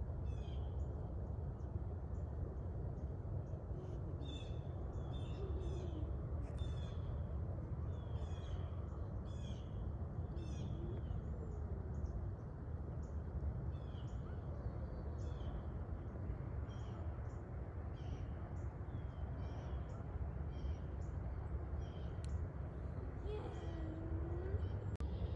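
Birds calling outdoors: short high chirps repeated about once or twice a second, with a few fainter low curving calls, over a steady low rumble.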